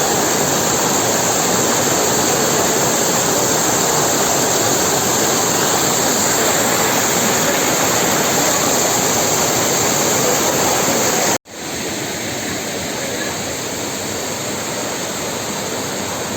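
Waterfall rushing steadily. The sound cuts off abruptly about eleven seconds in and resumes a little quieter.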